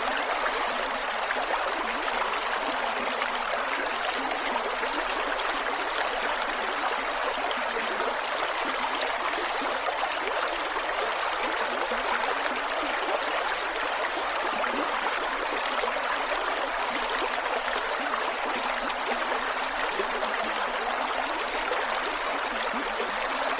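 Creek water flowing over rocks, a steady rushing babble with gurgles.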